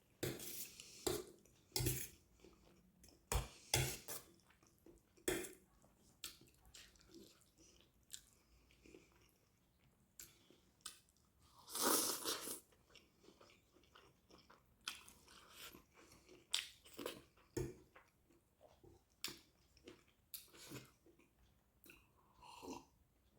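Close-miked chewing and mouth sounds of someone eating spaghetti chow mein with egg curry gravy, coming in short irregular bursts with pauses between them.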